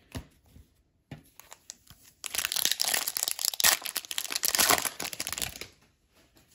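A foil wrapper of an Upper Deck Series One hockey card pack being torn open and crinkled: a dense crackling run of about three and a half seconds, starting about two seconds in after a few light clicks.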